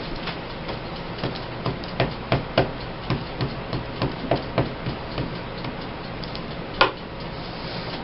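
A run of light, irregular taps and clicks from handling and pressing down stickers and paper cut-outs on a tabletop, about one or two a second, with a sharper knock about seven seconds in.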